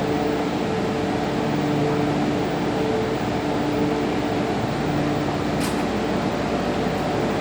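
MTR M-Train electric metro train running, heard from inside: a steady rumble with a motor hum that fades in and out. A brief high click about five and a half seconds in.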